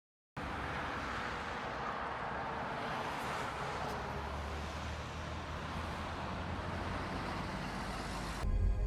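Steady in-car road and engine noise of a car driving, recorded by a dashcam, starting abruptly a moment in. Background music comes in near the end.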